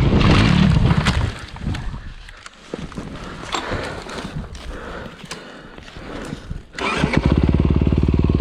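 Dirt bike engine running loud at first, then dropping away to a quieter stretch with scattered clicks and knocks. About seven seconds in, an engine starts running steadily again with a fast, even beat.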